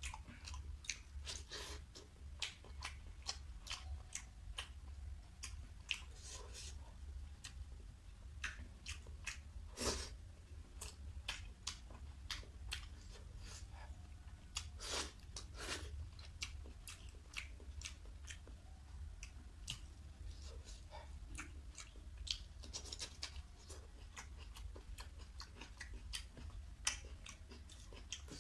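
A person chewing a mouthful of food, eaten with the fingers from rice and curry, making a run of irregular mouth clicks and smacks. A few louder ones come about ten and fifteen seconds in, over a steady low hum.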